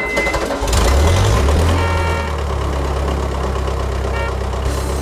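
Cartoon engine sound effect: a vehicle engine starts up about a second in, then runs at a steady low idle, with a couple of short high beeps over it.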